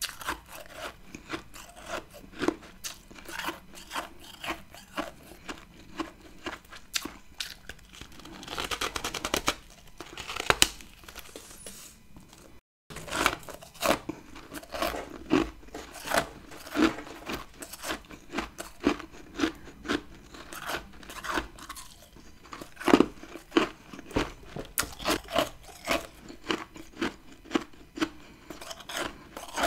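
Close-up chewing and crunching of chunky freezer frost grown from humidifier moisture: a fast run of sharp, crisp crunches, with the sound cutting out for a moment about halfway through.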